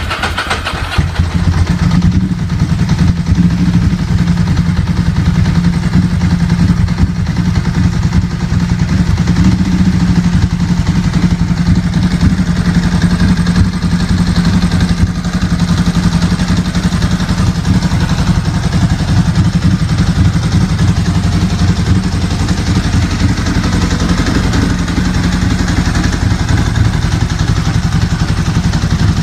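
1998 Ducati 916's 90-degree V-twin running on a cold start, just after firing up. It comes up to a loud, steady rhythm in the first couple of seconds and drops slightly quieter late on.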